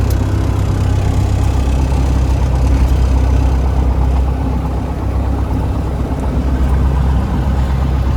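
Cessna 172M's four-cylinder Lycoming engine idling steadily, heard from inside the cabin, just before the mixture is pulled to cut it off.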